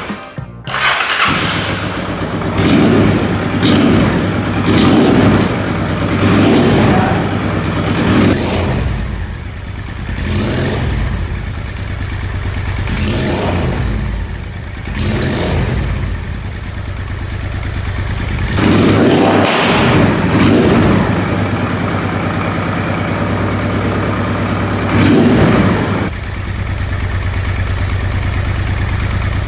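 Honda Transalp motorcycle engine running, revved in a series of short throttle blips between stretches of steady running.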